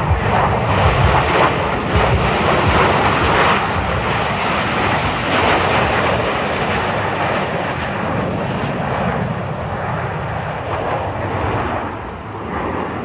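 Aircraft engine noise from a display airplane flying past: a loud, rushing roar that slowly fades near the end.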